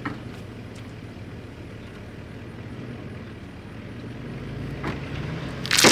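Truck engine running steadily, growing louder over the last second or so, with a sudden loud noise right at the end.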